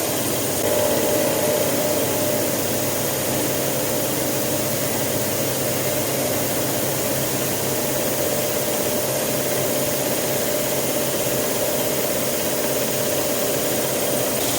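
Hitachi Seiki VM50 vertical CNC mill cutting a steel mold block with a Ø35 mm cutter at 1000 rpm: a steady machining noise with a constant tone, briefly a little louder about a second in.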